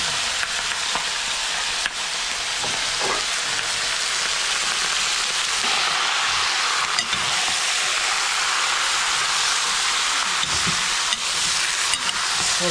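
Food frying in a hot pan: a steady, loud sizzle, with a few faint clicks.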